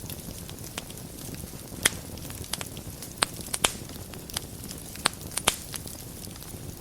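Fire burning in a fireplace: a steady low hiss and rumble with irregular sharp crackles and pops, several louder snaps spread through.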